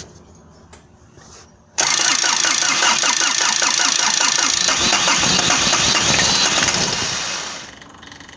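Starter cranking the diesel engine of a Toro 3500-D Sidewinder mower for about six seconds with an even, pulsing beat, starting suddenly about two seconds in and dying away near the end without the engine settling into a run: the fuel system is still being primed after a fuel filter change.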